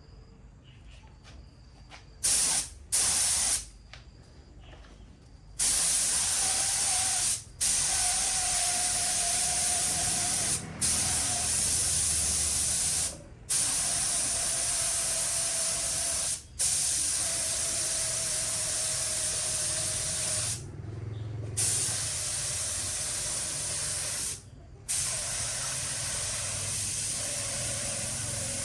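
Paint spraying: two short bursts of hissing spray, then long passes of steady hiss broken by brief pauses, with a faint whistling tone under the spray.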